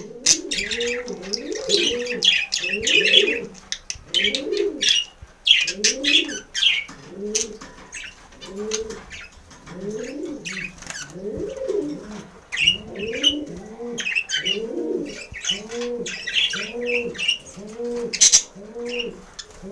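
Budgerigars chattering in sharp, high chirps that come and go in bursts. Under them a dove coos low and steadily, a little more than once a second.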